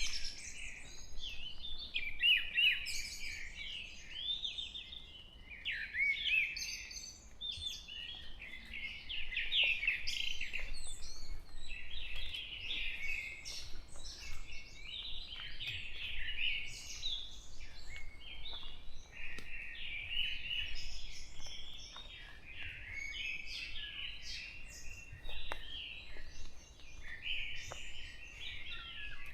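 Dawn chorus in a forest: several songbirds singing and chirping at once, with phrases overlapping continuously.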